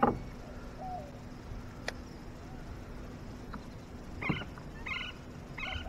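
A sharp knock, then a bird calling in a run of short calls about every half second in the second half.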